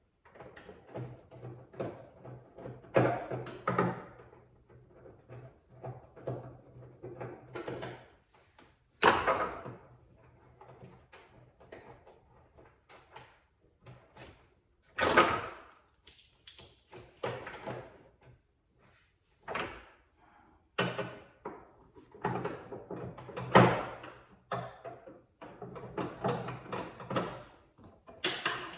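Irregular knocks, clicks, rattles and scrapes of hard parts and tools being handled while the old blower motor and its bracket are worked loose in a car, with a few louder knocks spread through it.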